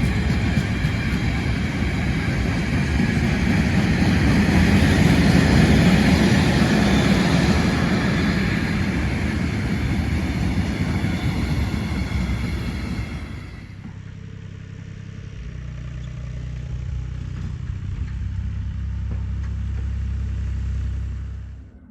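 A train passes with loud rolling and rail noise for about thirteen seconds. After an abrupt change it gives way to a low, steady engine hum that grows a little louder and cuts off suddenly near the end.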